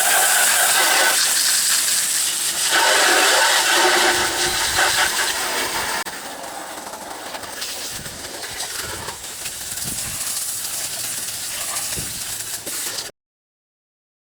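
Water spraying from a hose onto an engine bay, rinsing off degreaser. The spray is heavier for about the first six seconds, then lighter, and cuts off abruptly about a second before the end.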